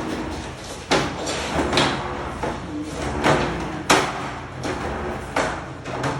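A series of irregular knocks and scraping clatters, a second or so apart, over a steady low hum.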